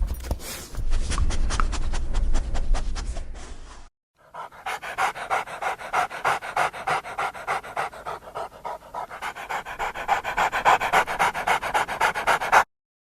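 Dog panting in quick, even breaths. It cuts off abruptly about 4 s in, resumes after a brief gap with louder, faster panting, and stops suddenly again near the end.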